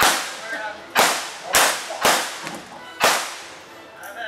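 Five loud blank gunshots in a staged Western shootout, each a sharp report with a short ringing tail. They come roughly a second apart, with two in quick succession about the middle.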